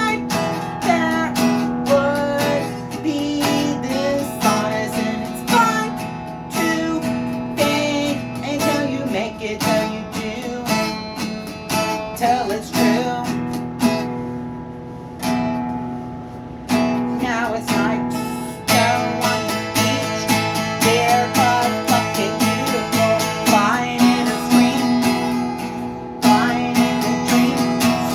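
Strummed acoustic guitar music with a steady rhythm, thinning out for a couple of seconds midway, then picking up fuller again.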